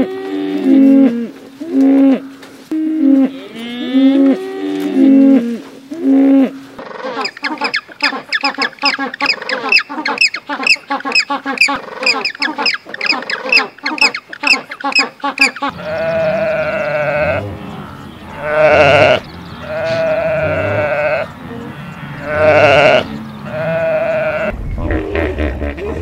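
A calf bawling in short repeated calls, then a group of penguins calling in a dense run of rapid overlapping calls. After that come slower animal calls, each about a second long, with pauses between them.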